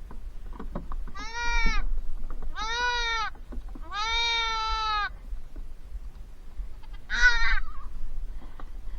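Young goat kid bleating four times, each call a short arched cry and the third the longest, the last one higher and wavering. The kid is bleating while it is held for castration banding.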